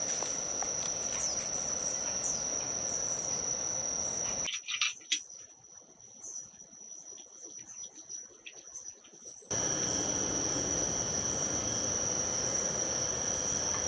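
Insects trilling in a steady high-pitched drone. About four and a half seconds in, it cuts off abruptly to a quieter stretch with a few sharp clicks and knocks. About five seconds later the drone cuts back in.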